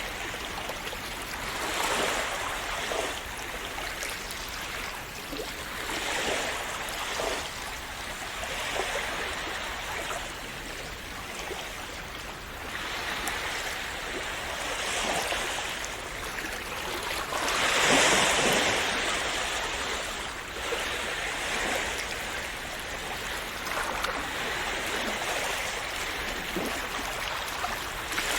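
Small sea waves washing and splashing against the shore in a continuous wash, swelling every few seconds, with a bigger wave breaking about two-thirds of the way through.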